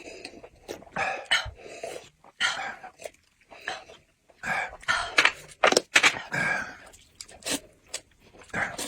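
Eating sounds: a person chewing and making mouth noises over food, in irregular short bursts.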